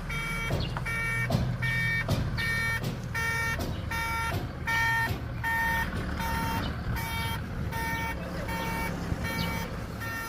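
A vehicle's reversing alarm beeping rapidly and evenly, about two and a half beeps a second, its pitch shifting partway through, over a low idling engine.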